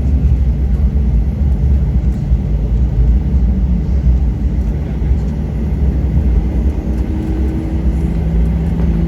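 Cabin noise inside a Boeing 737 on the ground after landing: a steady low rumble from the jet engines and the aircraft rolling. About halfway through, a faint steady engine hum joins it.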